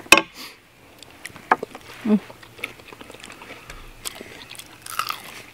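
Two people eating with their hands, with chewing and mouth noises and scattered small clicks. A sharp click comes right at the start, and a brief murmur of voice about two seconds in.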